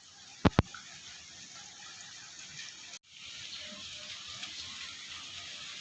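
Steady rain falling, an even hiss of water, with two sharp clicks about half a second in.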